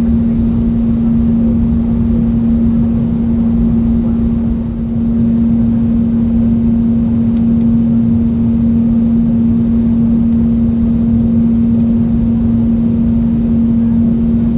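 Airbus A320neo cabin noise on the ground before takeoff: a steady low rumble with a strong, even hum, briefly dipping about five seconds in.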